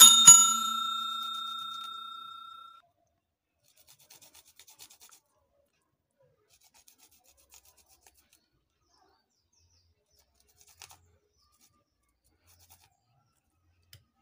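A kitchen vessel struck once, ringing with a few clear tones that die away over about three seconds, followed by faint small clicks of handling.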